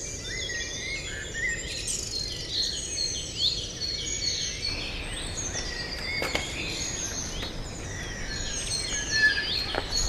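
Several small birds chirping and singing at once, quick rising and falling calls overlapping, with two short clicks, one about six seconds in and one near the end.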